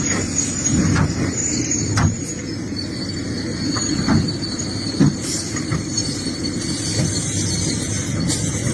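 Excavator working rocky soil: its engine running steadily, with a high squeal and several sharp metal clanks about a second apart.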